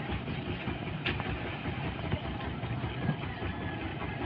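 A heavy engine idling steadily with a low hum.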